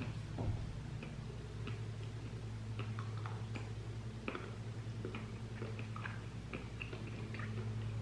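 Quiet chewing of a soft chocolate chip cookie dough bite: scattered small wet mouth clicks over a steady low hum.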